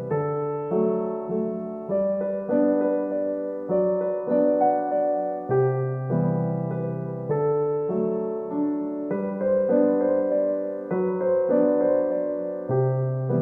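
Background piano music: a gentle solo piano piece with a slow, steady melody over bass notes.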